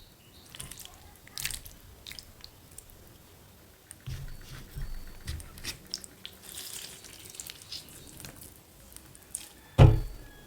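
Close-miked wet food sounds of rice and gravy being handled and eaten: scattered squishes, drips and small clicks, with one dull thump near the end.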